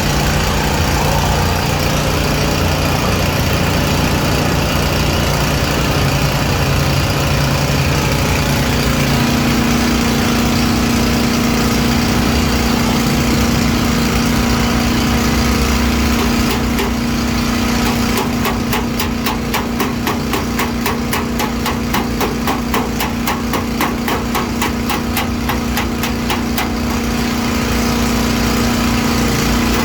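A motor running steadily. A bit past halfway, rapid, even hammering starts, about five strokes a second, as dents in the car's sheet-metal body panels are beaten out.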